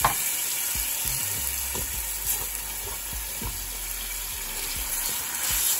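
Coconut cream sizzling steadily in a hot nonstick pan of frying chopped red peppers, with a silicone spatula stirring through it.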